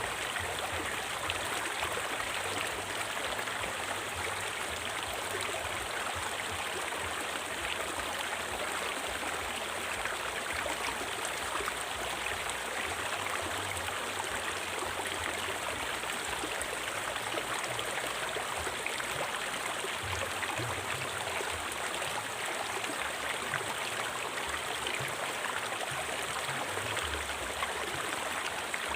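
A river's water flowing over rocks, a steady rushing and gurgling.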